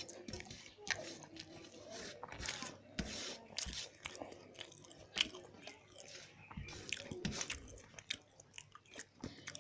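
A person chewing and biting food close to the microphone, with irregular sharp mouth clicks and crunches.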